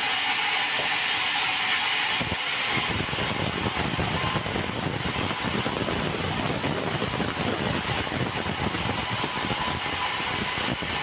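Band sawmill running as it saws meranti wood: a steady high hiss, with a dense low rattle joining about two seconds in.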